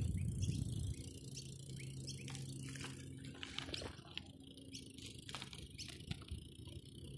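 Birds chirping in short, scattered calls over a low steady hum, with a louder low rumble in the first second.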